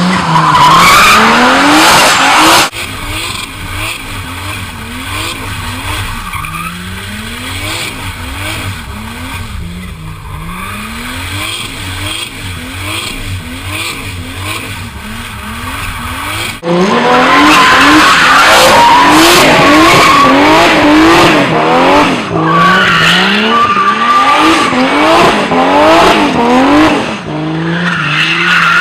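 Car engine revving up and down again and again while the car drifts, with tyre squeal. Quieter from about 3 s to about 17 s, then loud again.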